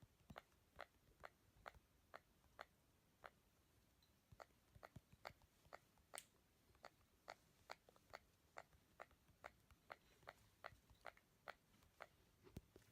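Parrot mimicking computer keyboard typing: a faint, irregular run of sharp clicks, about two a second, with a brief pause a few seconds in.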